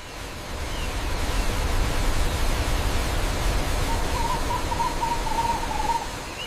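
Steady rushing noise with a deep rumble underneath, swelling in over the first second or so. A faint wavering whistle runs over it from about four seconds in and fades near the end.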